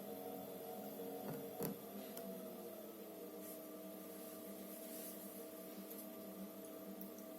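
Electrolux EWT 1377VIW top-loading washing machine running, its motor giving a steady hum of several tones. There is a click about a second and a half in, then the motor's pitch drops over the next second or so and settles.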